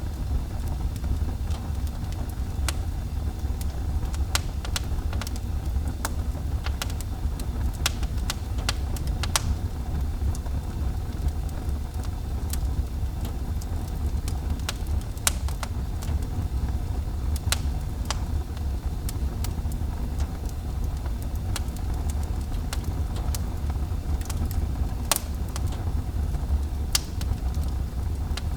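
Wood fire burning in a fireplace: a steady low rumble with irregular sharp crackles and pops, a couple of the loudest pops coming near the end.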